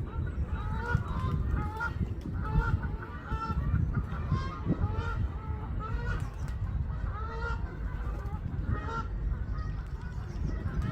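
A flock of birds calling together: many short, repeated calls overlap continuously, over a low rumble.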